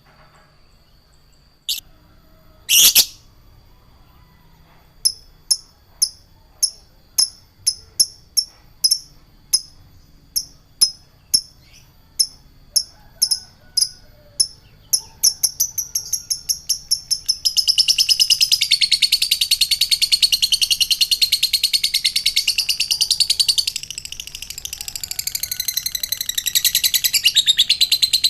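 A songbird singing: after two short calls, a run of sharp, high, evenly repeated chips that speed up, breaking about two-thirds of the way in into a dense, rapid, continuous high warbling song.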